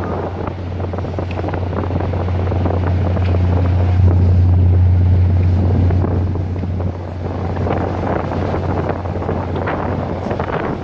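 An engine running steadily with a low hum that swells a little midway, with wind buffeting the microphone and scattered clatter over it.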